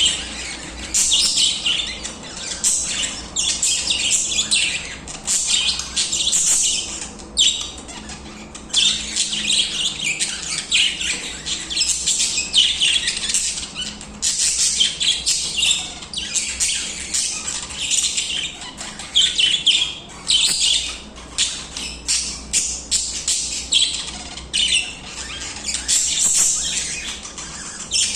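Budgerigars chattering and warbling continuously: many short, high chirps and squawks overlapping, with brief lulls.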